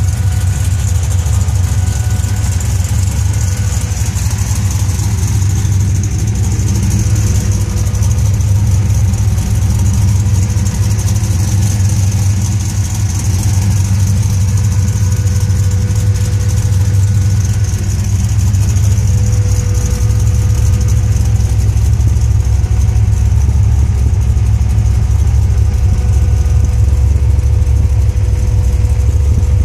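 Supercharged 350 small-block Chevy V8 with an 8-71 blower idling steadily, heard through its headers and 3½-inch bullet mufflers.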